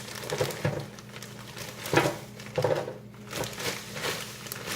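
Plastic bag of frozen chicken nuggets or fries crinkling in irregular bursts as it is handled, over a faint steady low hum.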